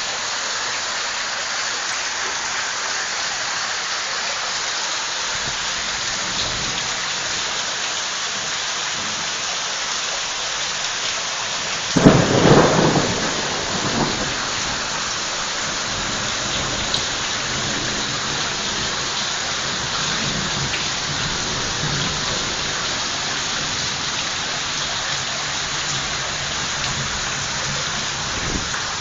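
Heavy rain falling steadily, with one loud thunderclap about twelve seconds in that rumbles away over the next couple of seconds.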